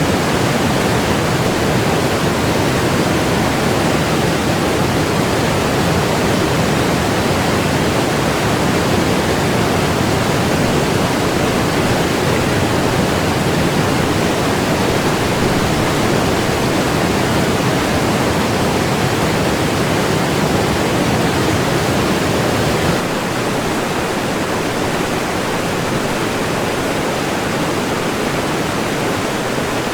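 Steady, dense rush of fast water on the rapid Kolvitsa River at its waterfall, a continuous even roar heaviest in the low-middle range. It steps down slightly in level about three-quarters of the way through.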